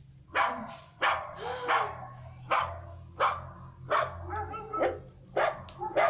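A dog barking repeatedly, about nine barks, roughly one every two-thirds of a second.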